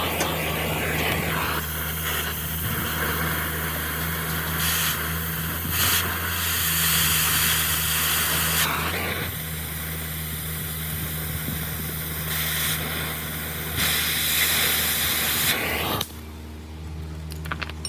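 A steady hissing spray over a constant motor hum, swelling and easing in spells and cutting off suddenly near the end.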